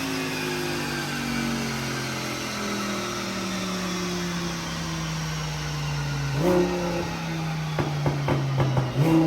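Twin-turbo Audi R8's V10 engine with its note falling steadily as the revs drop over several seconds. Background music takes over, with a bass line and regular drum hits coming in over the last few seconds.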